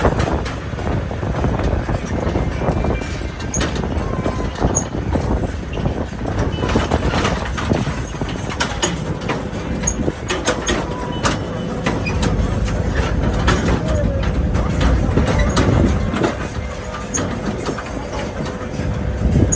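Tractor running during a ride: a steady low rumble, with frequent rattles and knocks throughout.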